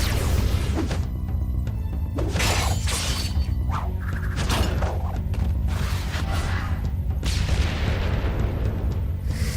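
Driving action-cartoon score with a heavy bass beat, overlaid with a rapid series of sound effects: booms, crashes, whooshes and sharp impacts.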